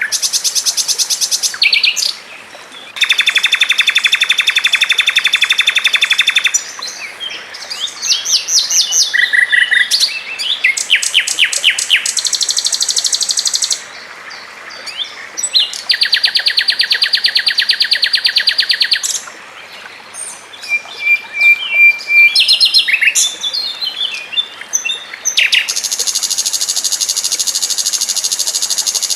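Songbirds singing fast, tightly packed trills and rattles in blocks of a few seconds, with shorter varied chirps and whistled notes between them.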